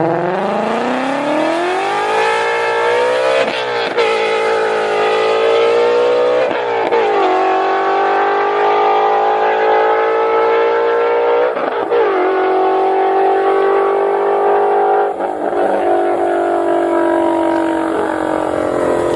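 Ford Shelby GT350R's 5.2-litre flat-plane-crank Voodoo V8 accelerating hard, its exhaust note climbing in pitch through the gears. Four upshifts each drop the revs briefly before the note climbs again.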